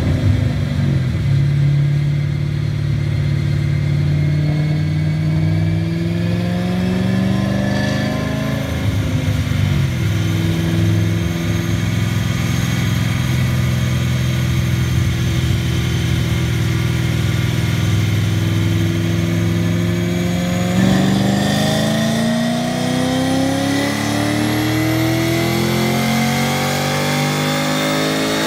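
2005 Mustang GT's 4.6 L V8 with an aftermarket Ford Racing camshaft, accelerating under load on a chassis dyno. The engine note climbs, drops briefly about eight seconds in, then rises slowly. From about 21 seconds it climbs steeply to high revs before falling off at the very end.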